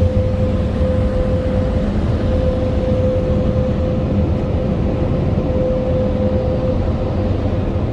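Belanger car wash blower dryers running, heard from inside the car's cabin: a loud, steady rush of air over a low rumble and a constant mid-pitched motor hum.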